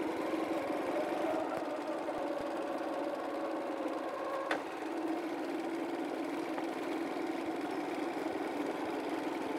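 Small motorcycle engine running steadily as the motorbike with its sidecar rolls along, with a sharp click about halfway through.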